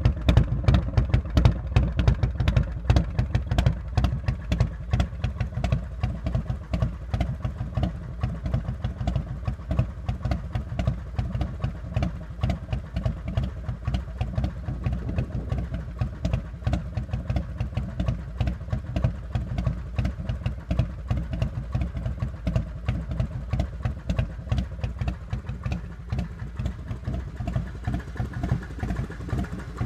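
Harley-Davidson Heritage Softail Classic's 95-cubic-inch Screamin' Eagle V-twin idling through a Vance & Hines exhaust, a steady run of low, even exhaust pulses. It is a little louder for the first few seconds, then settles.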